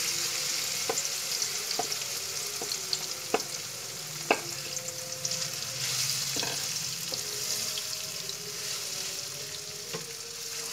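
Stuffed okra and green chillies sizzling in hot oil in a non-stick pan, being stirred with a wooden spatula that knocks against the pan now and then.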